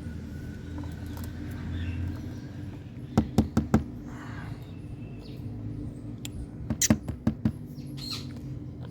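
Pet parrot at a mirror: soft, faint chirps broken by two quick runs of sharp clicks, one about three seconds in and one about seven seconds in, over a steady low hum.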